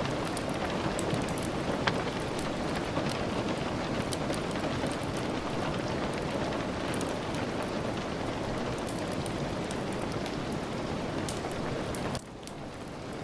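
Steady rain, with scattered sharp crackles and pops from a wood fire. Near the end the rain drops suddenly quieter for a moment.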